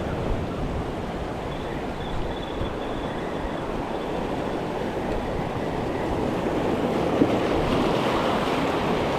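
Ocean waves washing in along the shore, with wind buffeting the microphone; the wash grows a little louder toward the end.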